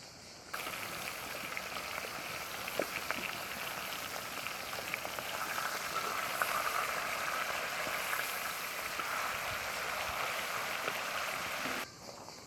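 Food frying in hot oil in a pan: a steady sizzle with scattered small pops. It cuts in about half a second in and stops abruptly near the end.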